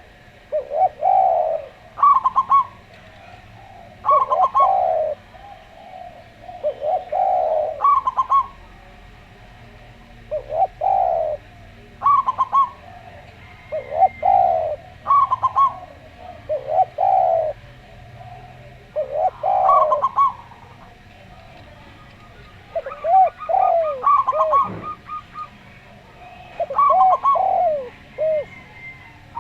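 Zebra dove (perkutut) and Javanese derkuku dove cooing in turn. About a dozen short phrases come with brief pauses between them, each a low drawn coo with a quicker run of higher notes. Near the end the phrases break into rapid short coos.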